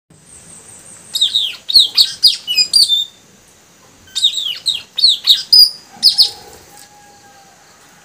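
Young puling birds calling in two runs of loud, sharp, downward-sweeping chirps. The second run starts about four seconds in.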